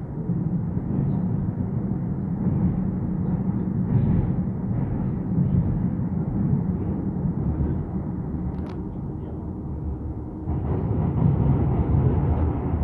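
Docklands Light Railway train running between stations, a steady low rumble of wheels on the track that grows louder about ten seconds in.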